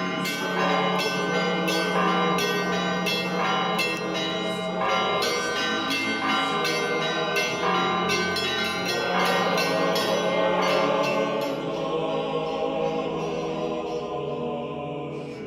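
Church bells ringing a peal, many quick strikes at different pitches ringing on over one another above a steady low hum; the strikes thin out and the ringing fades near the end.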